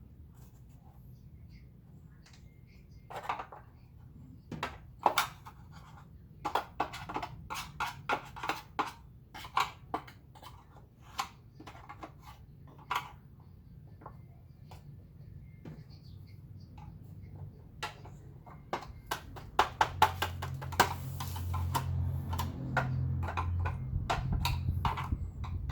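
Irregular clicks and knocks of hard plastic vacuum cleaner parts being handled. A low, steady hum comes in near the end.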